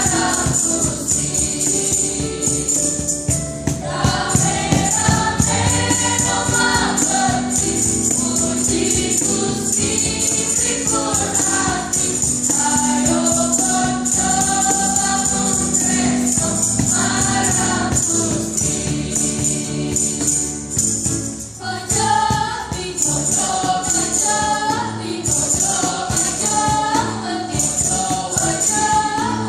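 Church choir singing, with a short break in the singing about 21 seconds in.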